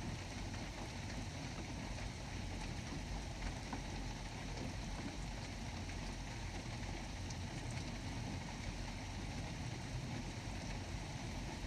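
Steady rain falling on a tin roof: a constant dense patter with scattered sharper drop ticks.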